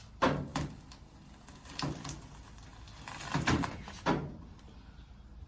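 Plastic tailgate trim panel being pried off by hand, giving several sharp cracks and creaks as the adhesive holding it lets go.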